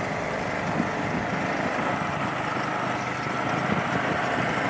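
A small 125cc motorbike engine running steadily just after being started.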